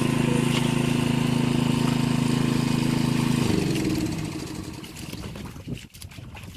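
A small engine running steadily, then switched off about three and a half seconds in, its pitch falling as it winds down.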